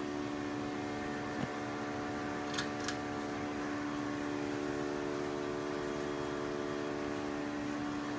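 Hunter Key Biscayne ceiling fan running with a steady motor hum of several held tones. The fan is said to have a bad capacitor. Two light clicks sound close together about two and a half seconds in.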